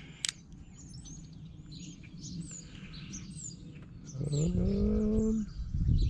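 Small birds chirping and twittering in the background. There is a sharp click just after the start, a low tone that rises and then holds for about a second from about four seconds in, and a few low knocks near the end.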